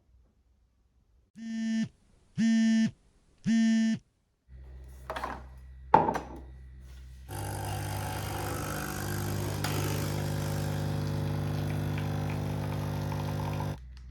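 Three short buzzy electronic beeps, then a couple of clicks and an electric appliance's motor running with a steady hum for about six seconds before cutting off.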